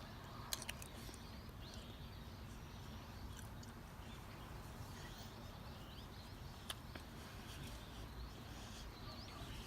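Faint outdoor ambience: a steady low rumble with faint bird chirps and a few light clicks, once about half a second in and once near seven seconds.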